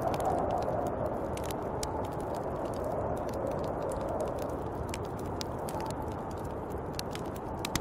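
Snowstorm wind blowing steadily, swelling and easing slightly in gusts, with faint irregular clicks and ticks scattered through it and one sharper click near the end.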